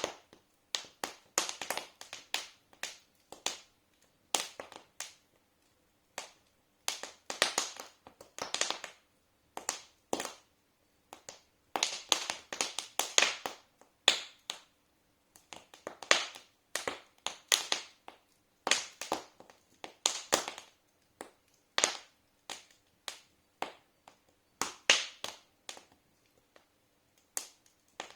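Wood fire in a fireplace crackling: irregular sharp pops and snaps, some in quick clusters, with short quiet gaps between.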